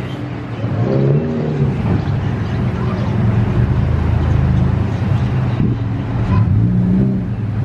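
A vehicle engine and road noise while driving: a steady low hum that grows louder about a second in and then holds.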